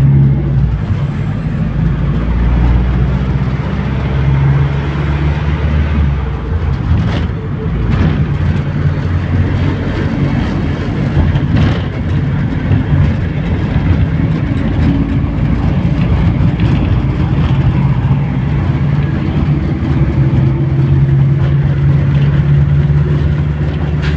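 Mercedes-Benz LO 915 Neobus city bus's diesel engine running while under way, its low drone shifting in pitch as the bus speeds up and eases off.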